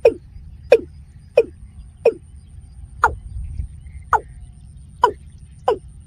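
A bird calling over and over, loud short notes that each slide quickly downward, about eight in all, roughly one every three-quarters of a second and spacing out a little midway.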